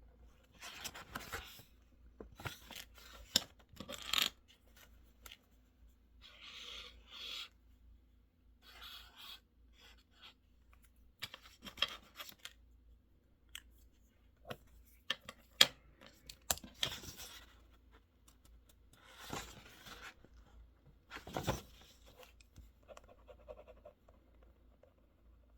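Desk work sounds: irregular bursts of paper rustling and scratching, with a few sharp clicks in between.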